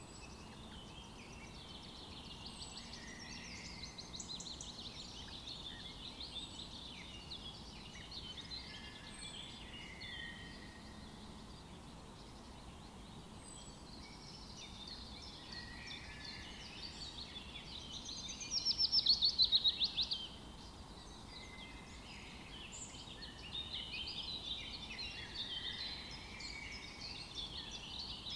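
Several songbirds singing over one another in a forest, with chirps and trills all through. About two thirds of the way in, one bird gives a loud, rapid trill that stands out above the rest.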